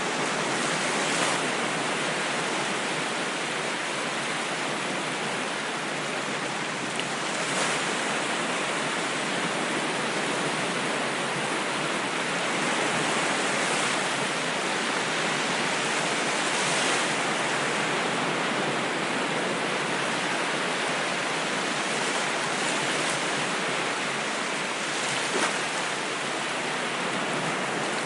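Ocean surf: a continuous rush of waves with slow, gentle swells in level.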